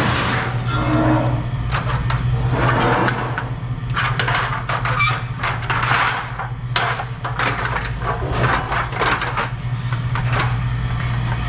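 Scrap metal pieces clattering and clanking as they are handled and tossed, many irregular knocks in quick succession, over a steady low machine hum.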